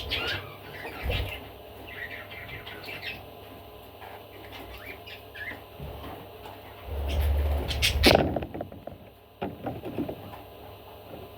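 Pet budgerigar chirping in short, quick calls through the first half, followed by a low rumble and a sharp knock about eight seconds in, with a few lighter knocks after it.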